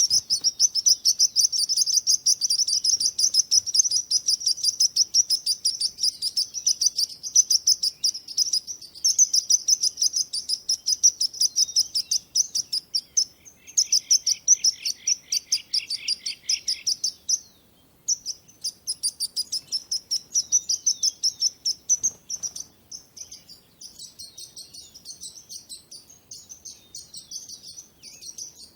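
Small birds chirping in fast, continuous high-pitched runs, several at once. A lower series of chirps joins in about halfway through, the chirping breaks off for a moment a little after that, and it goes on more softly near the end.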